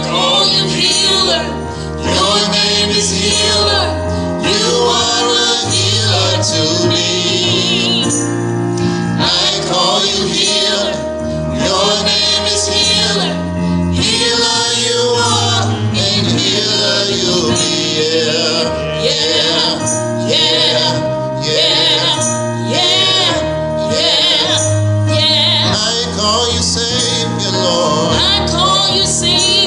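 Gospel choir singing a song, with instrumental accompaniment holding steady low notes under the voices.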